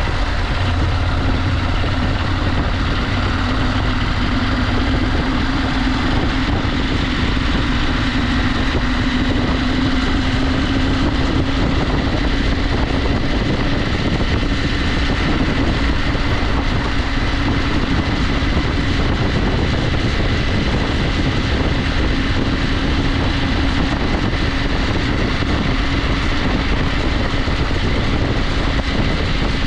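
KTM 890 Adventure's parallel-twin engine running at a steady cruising speed on a dirt road, its note rising slightly and then holding, over a constant rush of wind and tyre noise.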